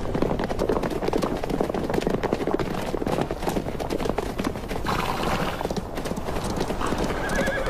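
Hooves of several Namib desert feral horses clattering on hard ground in a dense, quick patter. A horse whinnies near the end.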